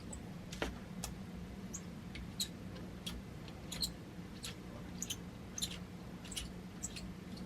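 Irregular small metallic clicks and ticks, about one or two a second, as an Allen key turns a set screw out of a bipod's clamp mount, over a steady low hum.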